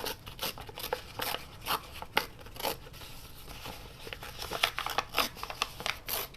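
A sheet of paper being torn by hand in a string of short, uneven rips, roughly two a second.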